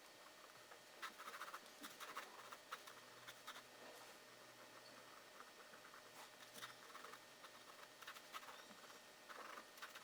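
Faint scratching of a drawing tool on paper, in short strokes that come in clusters with pauses between them.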